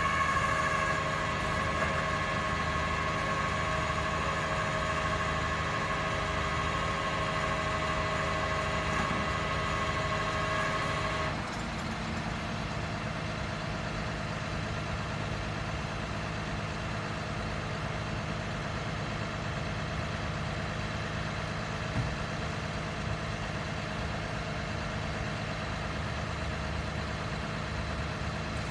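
Freightliner M2 flatbed tow truck's engine running steadily at idle. For about the first eleven seconds a steady high whine sits over it, then cuts off abruptly and the idle carries on a little quieter.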